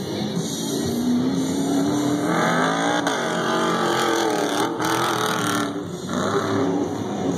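Stadium Super Trucks racing, their engines revving up and down so the pitch rises and falls, with a brief drop-off about two-thirds through.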